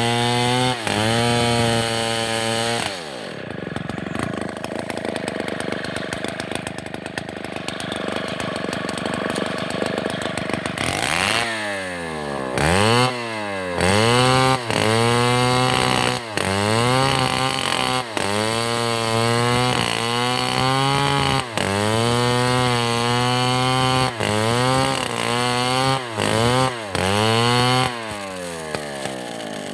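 Chainsaw engine held at high revs, then dropping lower and rougher for about eight seconds as it cuts into wood. After that it is revved up and let back down over and over, about once a second.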